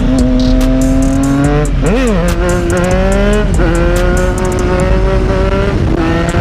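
Triumph Street Triple's inline three-cylinder engine pulling hard through the gears. The pitch climbs in each gear and drops sharply at each upshift, about two, three and a half, and six seconds in.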